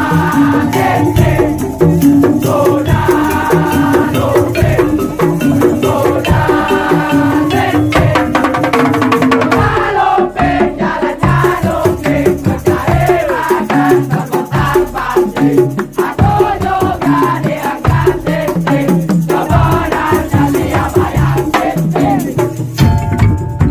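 Madurese tong-tong (ul daul) ensemble playing: dense, rapid percussion strokes under a melody line that bends in pitch.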